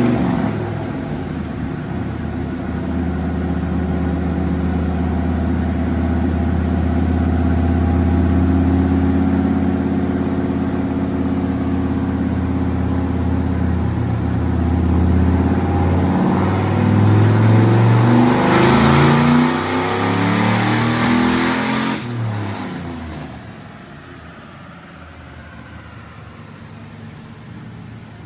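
Turbocharged V8 of an OBS truck making a pull on a chassis dyno, running hard under load. It climbs in revs with a harsh rush of noise, then suddenly drops off about 22 seconds in to a quiet, low run-down. The drop is the engine cutting out on the top end, which is put down to spark blowout from ungapped plugs.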